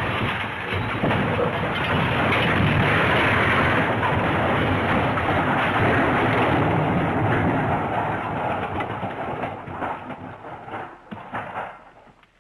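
Crash sound effect: a long, dense clattering crash that holds for about eight seconds, then thins into scattered rattles and clatters that die away near the end.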